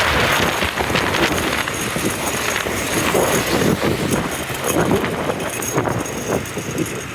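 Motorbike traffic and road noise, a rough, uneven rumble with wind buffeting the microphone.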